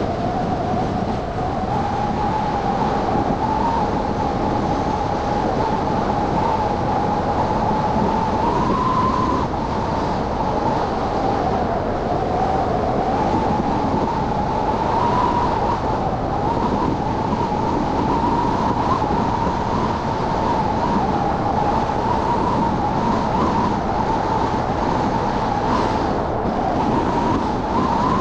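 Steady driving noise from a car moving through city traffic, with a continuous hum whose pitch drifts slightly up and down.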